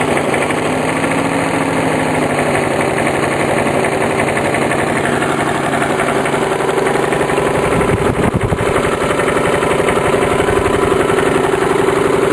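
Briggs & Stratton lawn mower engine idling steadily through a scooter muffler bolted onto its exhaust. There is a brief, rough disturbance in the sound about eight seconds in.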